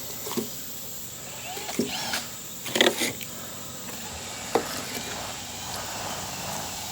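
A few short, scattered rustles and knocks as the skin is pulled off a raw chicken breast and the carcass is handled, the loudest about three seconds in. A steady high insect drone runs underneath.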